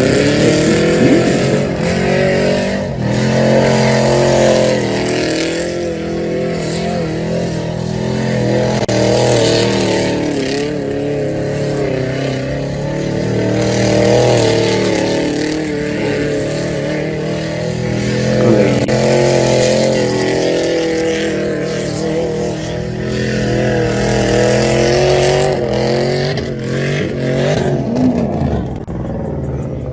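Loud truck engines and exhausts running and revving, their pitch rising and falling throughout.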